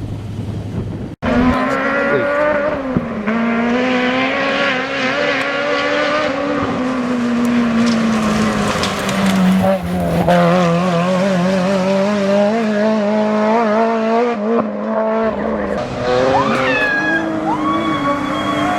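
Rally car engine revving hard, its pitch climbing and dropping with throttle and gear changes, with tyre squeal near the end. The sound cuts out for an instant about a second in.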